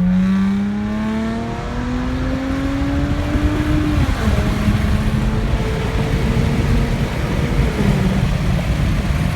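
2007 Saturn Aura XR's 3.6-litre V6 through a straight-piped exhaust with the resonator deleted, under hard acceleration. The exhaust note climbs steadily, drops abruptly at an upshift about four seconds in, then holds a fairly steady pitch.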